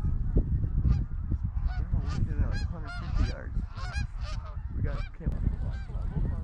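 A flock of Canada geese honking, many calls overlapping for several seconds, over a steady low rumble of wind on the microphone.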